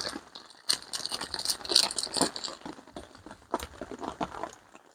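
Irregular rattling and clicking of small hard objects being handled, a run of light knocks with a busier stretch about two seconds in.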